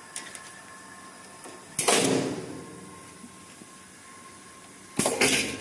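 Production machinery: two loud, sudden strokes with a sharp start and a hissing tail that fades over about a second, roughly three seconds apart, over a steady faint hum.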